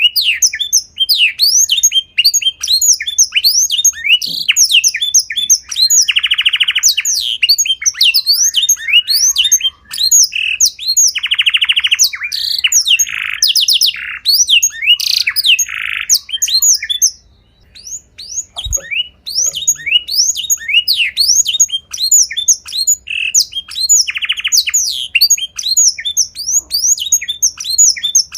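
A small songbird singing fast and without pause: a rapid stream of sharp, falling chirps broken by several buzzing, rattling trills, with one short break about two-thirds of the way through.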